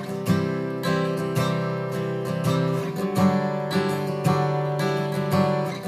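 Acoustic guitar strumming a run of chords, a strum about every half second, each chord left to ring into the next.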